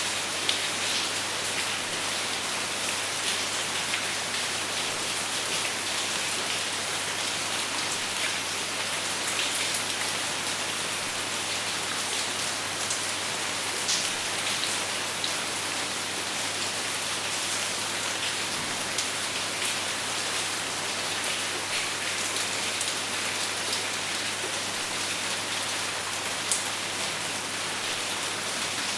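Steady rain falling, with no thunder: a constant hiss of rain on a surface, with individual drops ticking sharply here and there.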